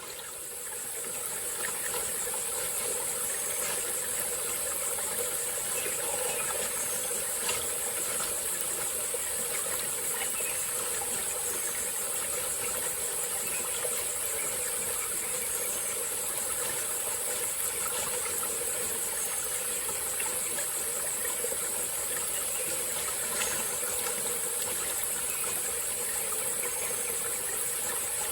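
Small tropical forest stream flowing steadily, with a constant high-pitched insect chorus over the water. The sound fades in over the first second or two.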